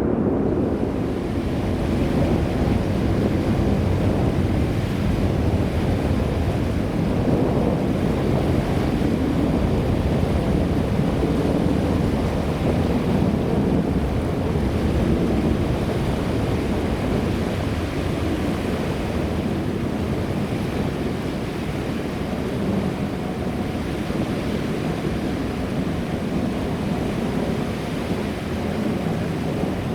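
Boeing 747-8i's four GEnx-2B turbofan engines at takeoff thrust: a steady, low jet roar that slowly eases off toward the end.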